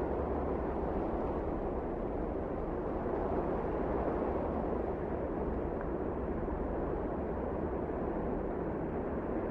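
Strong blizzard wind blowing as a steady, low rush of noise with a deep rumble underneath and no gusts or breaks.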